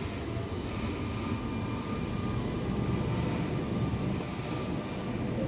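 Millennium (M-set) electric multiple-unit train M26 coming into the platform: a steady low rumble with a faint motor whine. A short hiss comes near the end.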